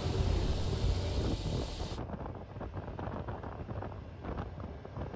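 Wind buffeting the microphone outdoors, with a heavy low rumble. About two seconds in it cuts abruptly to quieter, crackling wind noise.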